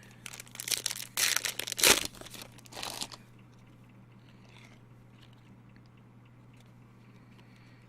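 Trading-card pack wrapper crinkling and tearing open in several short bursts over the first three seconds, then only a faint steady low hum.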